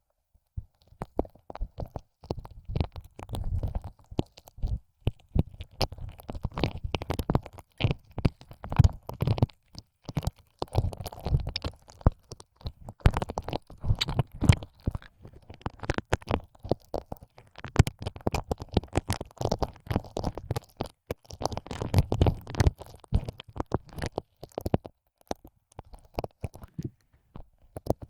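Ear licking close to the microphone: a tongue licking and pushing in and out of an ear hole. It makes dense, irregular wet clicks over low, muffled thumps.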